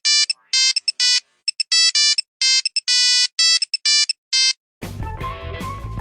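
An electronic ringtone melody of short, clean beeps in a quick tune. Near the end it gives way to band music with guitar and drums.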